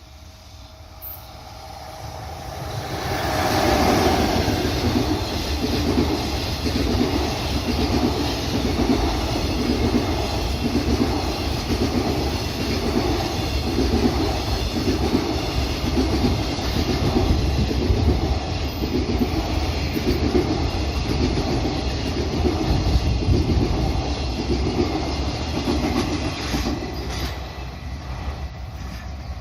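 Freight train passing close by: it builds up over the first four seconds as it arrives, then a long string of wagons runs past with a regular clickety-clack of wheels over rail joints, about one beat a second, easing slightly near the end.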